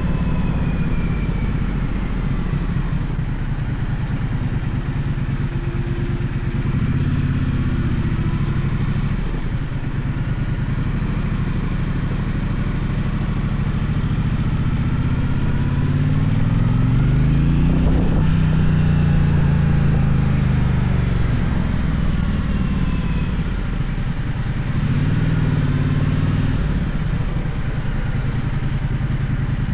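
Gaokin GK1200 motorcycle engine running on the move, its pitch climbing and dropping several times as it accelerates and eases off. The strongest pull comes just past halfway.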